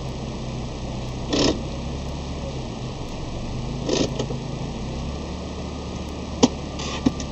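1997 Honda Accord EXi's four-cylinder engine idling steadily after its first start-up, with two short rustling noises and two sharp clicks near the end.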